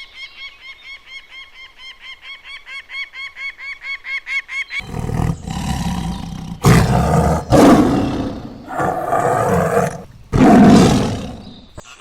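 Animal calls: first a quick series of short, high calls, about five a second and growing louder. About five seconds in, a large animal takes over with a run of loud, deep calls, the last one starting near the end.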